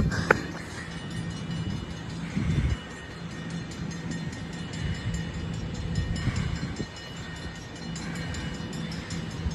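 SEPTA commuter train drawing near, with a steady low hum and rumble.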